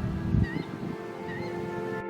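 Black-winged stilt calls, short rising yelping notes over a low rumble that cuts off about half a second in. Background music with long held notes fades in beneath the last two calls and takes over.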